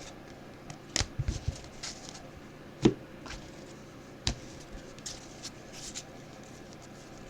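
Trading cards being handled: scattered soft clicks and taps as cards are flipped and set down, the sharpest about three and four seconds in.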